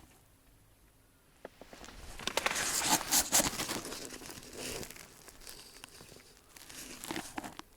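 Rustling and crinkling of dry material, with a loud stretch about two to four seconds in and a shorter bout near the end.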